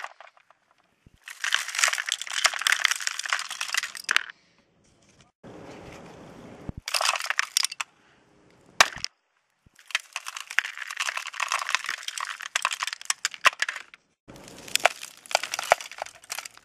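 Building-collapse demolition sound effect: several bursts of crashing, breaking debris, each a dense crackle of many small impacts lasting a second to a few seconds, with short gaps and one sharp crack between them.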